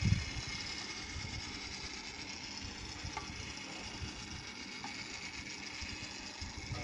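A toy speed boat's small electric motor running steadily, a continuous high whine, with a knock just at the start and a couple of faint ticks.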